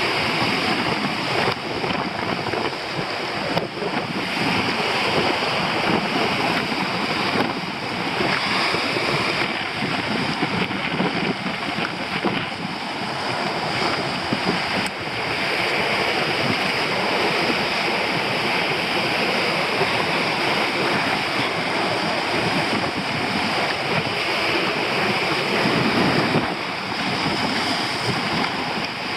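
Storm surf breaking on a rocky shore, with very strong wind blowing across the microphone.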